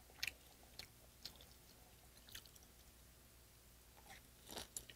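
A few faint clicks as chopsticks lift green onion kimchi, then a person biting and chewing the kimchi near the end.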